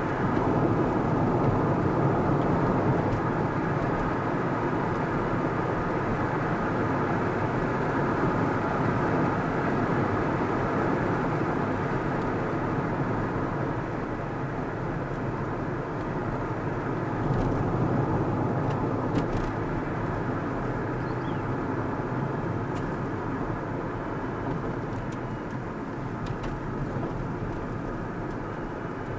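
Steady noise of a car driving along a road: tyre and engine rumble that swells and eases gently, with a few faint ticks about halfway through.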